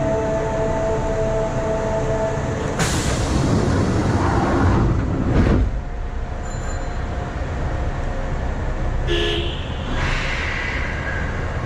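Metro train standing at an underground platform: several steady tones sound together for the first few seconds, then a loud hiss starts about three seconds in and lasts about three seconds before the cab settles to a lower steady noise, with a short tone about nine seconds in.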